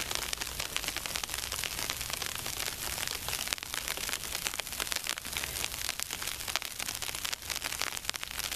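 Sleet pellets falling and hitting the ground and surfaces: a steady, dense crackle of many tiny ticks.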